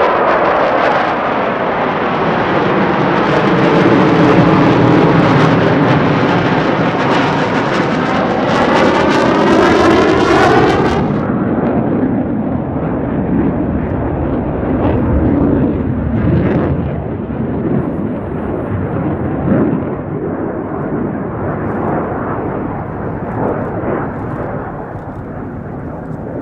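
Blue Angels Boeing F/A-18 Super Hornet jets flying past, a loud jet engine noise with a swishing sweep falling in pitch as they go by. About eleven seconds in the hiss drops away sharply, leaving a rumble that slowly fades as the jets move off.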